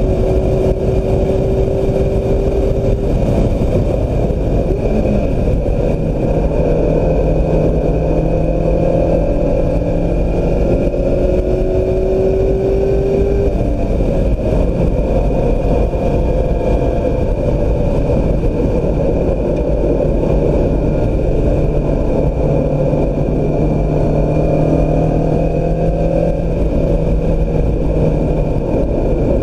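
2016 Mazda MX-5 Miata's four-cylinder engine driven hard, its pitch climbing and falling again and again through acceleration and lifts, over heavy low wind and road rumble.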